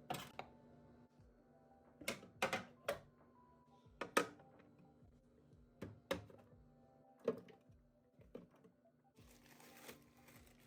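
A series of sharp knocks and clicks, spaced irregularly about a second or two apart, like items and containers being handled and set down, over faint background music. A short rustle comes near the end.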